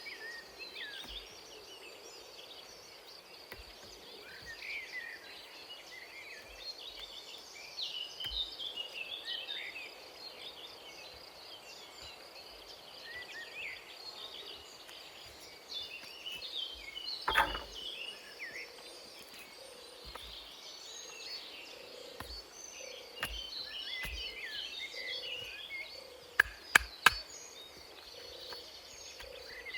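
Forest ambience: many birds chirping and twittering over a steady high insect drone. There is one sharp knock partway through and three quick sharp clicks near the end.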